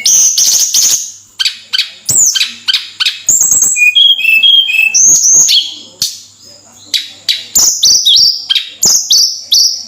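Tledekan gunung (Sunda blue robin) singing loudly and continuously: a fast, varied run of high whistled notes and chirps, many sliding down or up, with sharp clicking notes among them and a brief lull about six seconds in.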